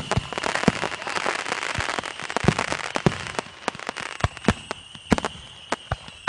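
Consumer fireworks going off in quick succession: many sharp bangs, with a dense crackling from the effects over the first couple of seconds that thins out toward the end.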